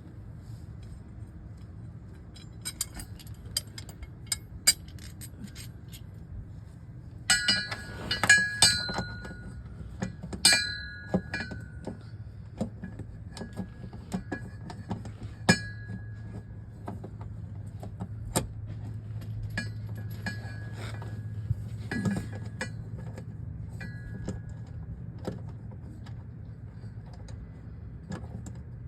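Metal hand tools and sockets clinking and clattering during work on a car's underside, with scattered sharp clinks and a few clusters of ringing metallic strikes. A steady low hum runs underneath.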